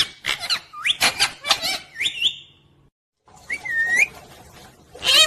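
Pet parrot whistling and chattering: a quick run of short calls, a rising whistle about two seconds in, a brief silence, then a dipping whistle about four seconds in.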